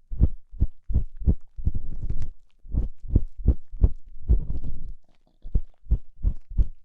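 Close-miked ASMR ear cleaning: an ear-cleaning tool scraping and rubbing in an ear in short strokes, about two a second, each with a dull low thump and a scratchy edge, with a brief pause about five seconds in.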